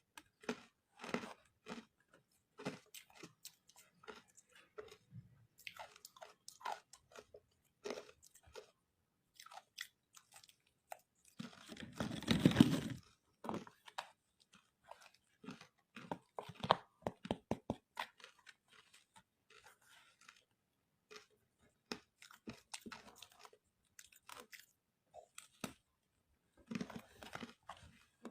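Close-miked biting and chewing of crunchy ice, a run of sharp irregular crunches with short pauses, and one louder, longer crunch about halfway through.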